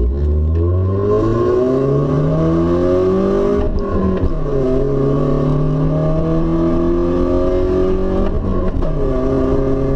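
BMW E36 316i's 1.6-litre four-cylinder engine through a straight-piped open exhaust, heard from inside the car as it accelerates: the engine note rises, drops at a gear change a little under 4 seconds in, rises again through the next gear, and shifts once more near the end.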